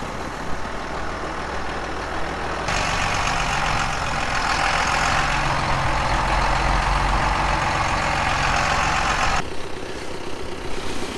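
John Deere farm tractor's diesel engine running steadily. From about three seconds in to about nine seconds in, a loud rushing noise sits over it.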